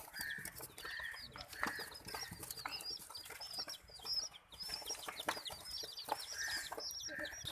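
A flock of baby chicks peeping constantly in many rapid, high, overlapping chirps, most of them falling in pitch, with a few lower, longer calls mixed in.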